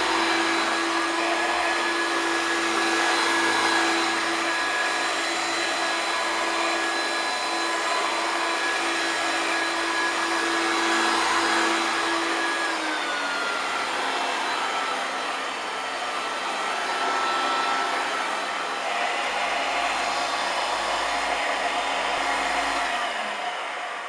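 A 1993 Hoover TurboPower 2 Autosense U2464 upright vacuum cleaner running with a steady motor whine. About halfway through the whine drops in pitch. Near the end it drops again and the sound starts to wind down.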